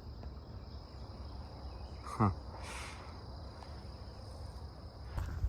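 Insects trilling steadily at one high pitch, a continuous outdoor chorus.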